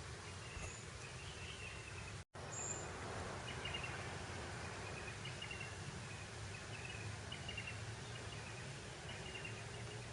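Breeze over open grassland, a steady noise, with rows of short high chirps repeating throughout from insects or small birds. The audio cuts out completely for a moment about two seconds in.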